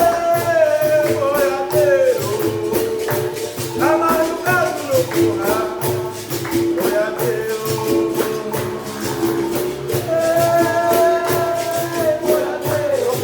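Capoeira music: a berimbau and pandeiro playing a steady rhythm under a solo voice singing in phrases.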